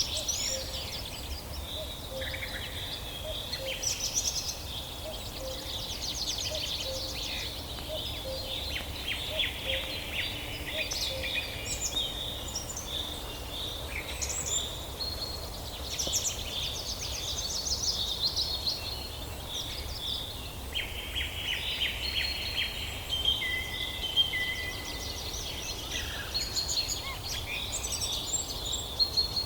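A chorus of several songbirds singing at once: overlapping rapid trills, chirps and whistled notes, with faint short low notes repeating in the first half and a steady low rumble of background noise beneath.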